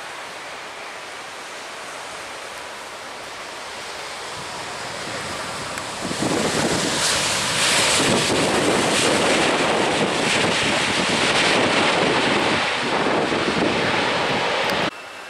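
Loud jet engine roar of an airliner passing close, building over several seconds and jumping louder about six seconds in, over wind on the microphone and surf. It cuts off abruptly near the end.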